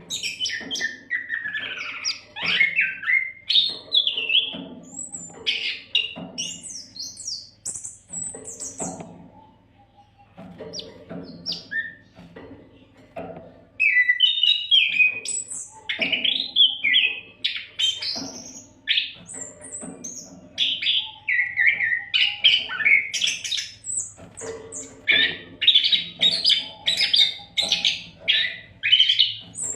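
Oriental magpie-robin (kacer) singing in full, near-continuous song: quick runs of varied high whistles, trills and harsh chattering notes, easing off for a few seconds in the middle, over a faint steady low hum.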